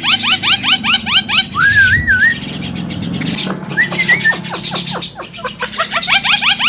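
Javan myna singing its rapid 'mblegedeg' song: a fast run of rising chirps, about seven a second, breaks off after a second and a half into a warbling whistle. A shorter whistle and some slower, fainter chirps follow, and the fast run starts again near the end.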